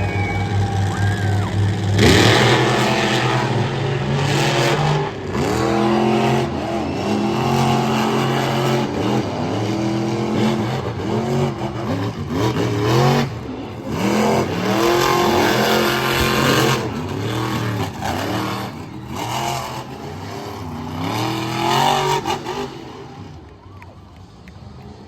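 Monster truck engine running steadily, then from about two seconds in revving hard again and again, pitch climbing and dropping with each blip. It dies away near the end.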